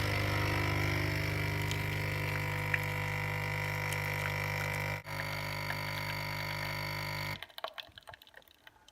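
DeLonghi Nespresso U-Milk capsule machine's pump buzzing steadily as it brews an espresso, with a momentary break about five seconds in, then cutting off about seven seconds in.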